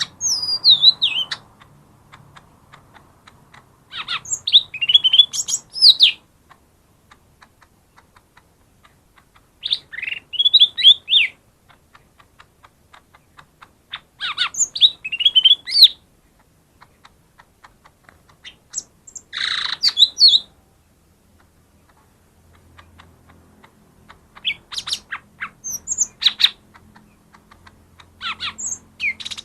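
Green leafbird (cucak ijo mini) song, used as a lure to set reluctant cucak ijo singing. It comes in short bursts of rapid, high whistled notes and down-sweeping chirps, a burst about every four to five seconds with quiet pauses between.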